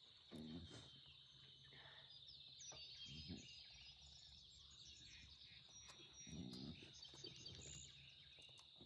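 Near silence: faint outdoor ambience of a steady high-pitched insect drone, with a few faint scattered bird chirps.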